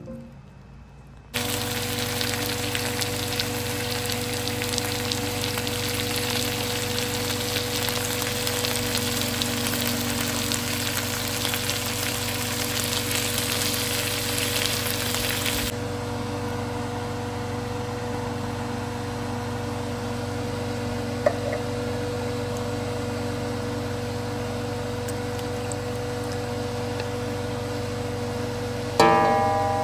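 Chicken sautéing in tom yum paste with ginger, onions and garlic in a wok, a dense sizzle over a steady hum. About halfway through the sizzle drops off sharply to a quieter cooking sound as the dish turns saucy with coconut milk.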